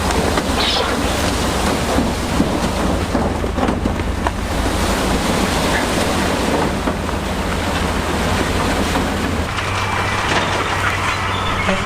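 Heavy diesel earthmoving machine running steadily under load, with rumbling, scraping and knocks from rock and steel tracks. A thin squeal enters near the end.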